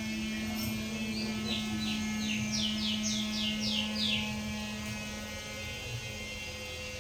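White-rumped shama (murai batu) singing a quick phrase of about nine short, repeated downward-sweeping notes, with a steady low hum underneath.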